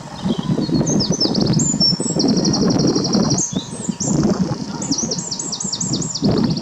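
Songbirds singing: quick whistled phrases and fast trills of rapidly repeated high notes, over a loud, rumbling low noise.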